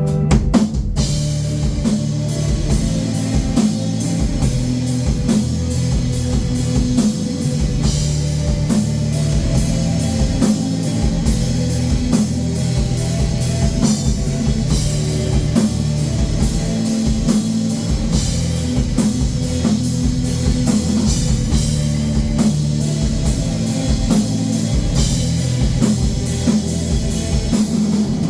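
Rock band playing live: a drum kit keeps a steady beat under guitar. A held chord gives way to the drums about a second in.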